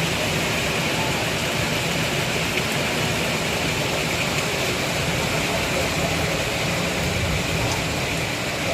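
Heavy rain falling steadily, an even hiss with an occasional faint tap of a drop.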